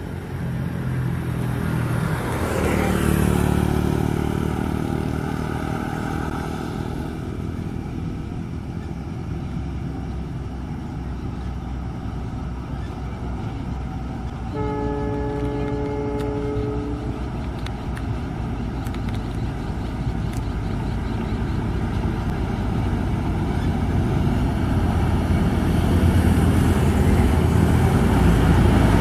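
Distant train running with a steady low rumble that swells about three seconds in and builds again near the end. Halfway through, a locomotive's multi-tone horn sounds one steady blast lasting about two seconds.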